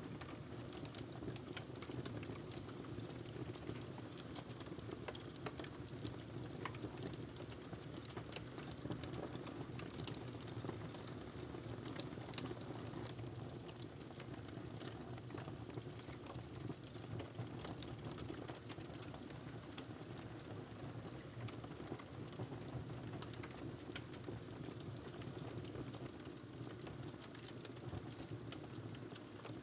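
Fireplace crackling steadily: many small pops and snaps over a low, even hiss.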